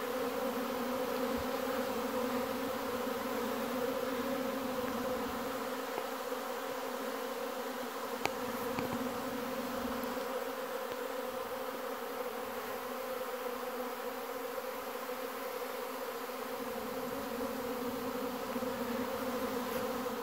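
A honey bee swarm buzzing close by in a steady, even hum.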